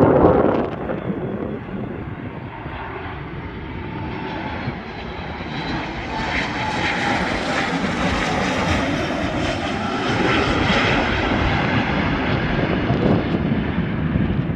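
An aeroplane's engines passing, the noise swelling to its loudest about seven to eleven seconds in and then easing off. A gust of wind on the microphone at the very start.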